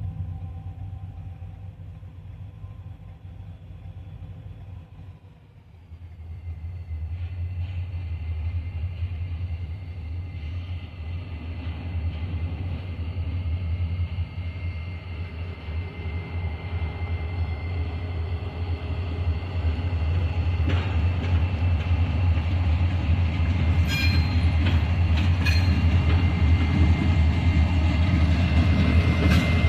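A train rolling along the rails, a steady low rumble that grows louder as it comes closer, with a thin high steady whine from the wheels and a few sharp clicks near the end.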